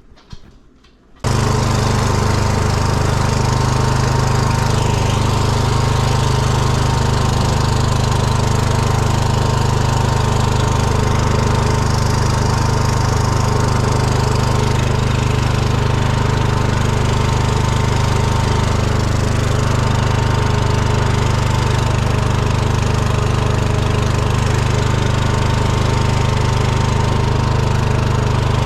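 Small engine running loudly and steadily at a constant speed, cutting in abruptly about a second in.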